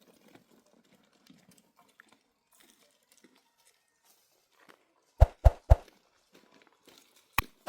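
Faint rustling, then three sharp knocks in quick succession, and two more single knocks near the end.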